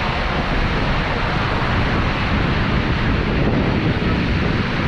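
Steady rushing of the Seljalandsfoss waterfall, mixed with wind buffeting the microphone.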